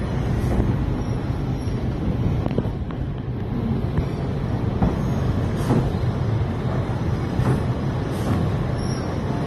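Passenger train running, heard from an open carriage window: a steady low rumble with a few faint clicks scattered through it.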